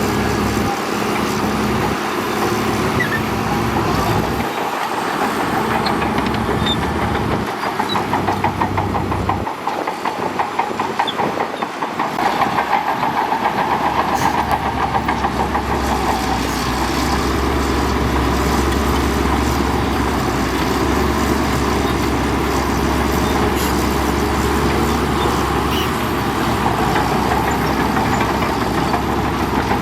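Bulldozer's diesel engine running under load with a fast, steady clatter of its steel tracks. The low engine drone becomes steady from about twelve seconds in.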